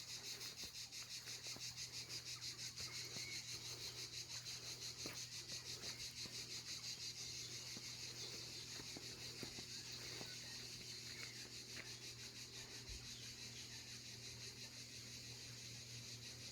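Cicada-like insects buzzing in a steady, high-pitched chorus with a rapid, even pulse, growing a little fainter in the second half.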